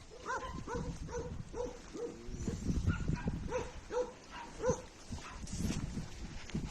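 Dogs yipping and whining in short, repeated high calls, about two a second.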